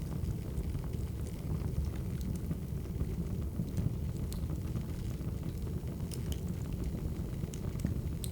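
Burning firewood crackling: sharp pops and snaps scattered over a steady low rumble of the fire.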